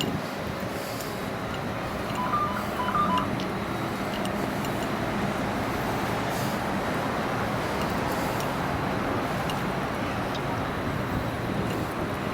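Steady noise of a Caltrain train running, with a short run of high electronic beeps about two seconds in.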